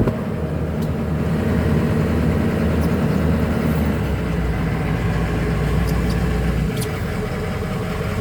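2005 Ford E350 shuttle bus's 6.0-litre Power Stroke turbo diesel V8 idling steadily. A click comes right at the start, and a deep low hum drops away near the end.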